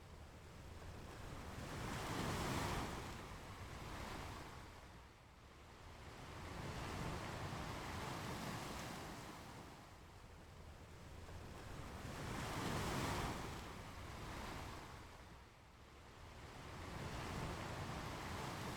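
Ocean waves breaking and washing up the shore, swelling and falling away in a slow rhythm, about one wave every five seconds.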